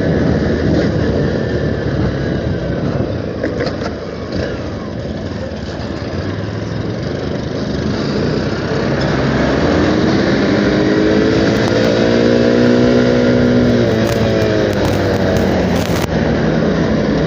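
Motorcycle engine running with constant wind and road roar. About nine seconds in, an engine note rises in pitch over a few seconds and drops again near fourteen seconds.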